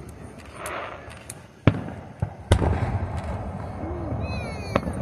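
Aerial fireworks shells bursting overhead: a series of sharp bangs, the loudest about one and a half and two and a half seconds in, each followed by a low rumbling echo.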